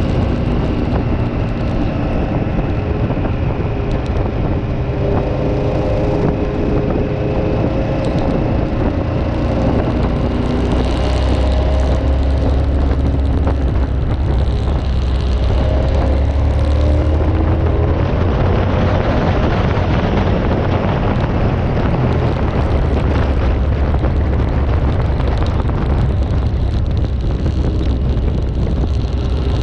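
Motorcycle engine running while riding, its note rising and falling with speed, under a heavy rumble of wind on the microphone.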